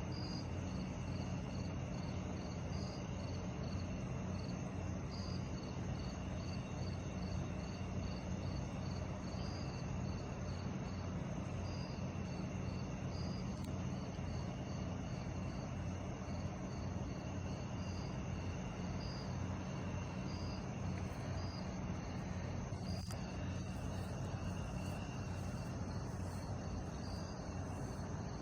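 Crickets chirping at night in a steady high-pitched pulse, about two chirps a second, over a steady low hum.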